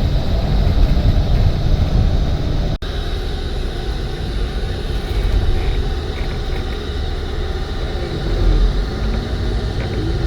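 Steady low rumble of a car driving, heard from inside the cabin: engine and road noise. A thin steady high tone runs through it, and there is a brief dropout about three seconds in.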